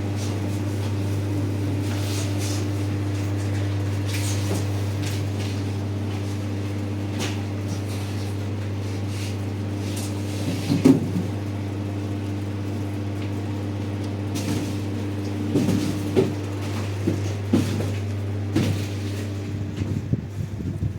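A steady low mechanical hum runs throughout, with scattered knocks and clicks over it. The loudest knock comes about eleven seconds in, and more follow in the last few seconds.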